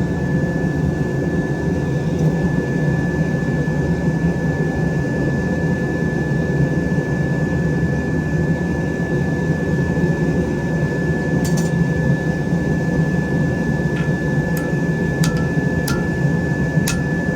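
Forge running with a steady, low roar and a constant thin whine above it. A few sharp clicks near the end.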